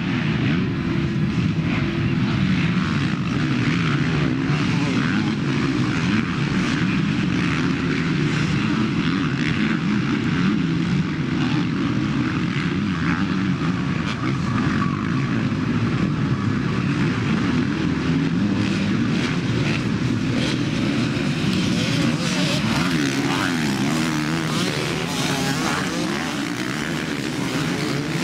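Several motocross bikes racing together, their engines revving up and down continuously as they ride the circuit, overlapping engine notes that rise and fall.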